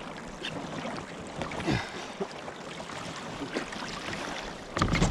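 Choppy sea water slapping and sloshing against a fishing kayak's hull, with wind on the microphone and a louder burst of noise near the end.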